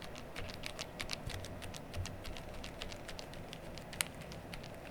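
A sock being rubbed over a mechanical keyboard with its keycaps off: a faint rustle with scattered small clicks, and one sharper click about four seconds in.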